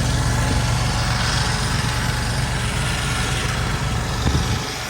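Diesel engine idling with a steady low hum. A brief knock comes near the end.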